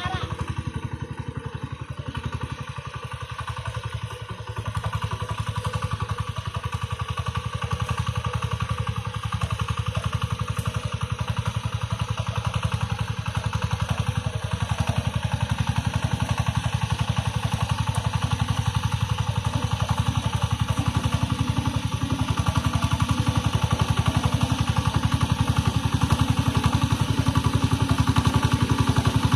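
Tractor engine running steadily while ploughing, with a fast, even firing beat. It gets louder about four to five seconds in.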